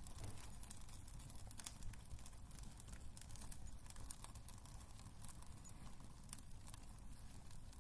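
Wood fire crackling in a fireplace: faint, irregular sharp snaps and pops over a low steady rumble of the burning fire.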